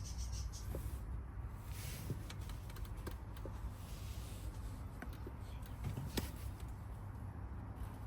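Faint scraping and rubbing with a few sharp clicks as a flat screwdriver levers a solid rubber scooter tyre up onto its rim, over a low steady hum.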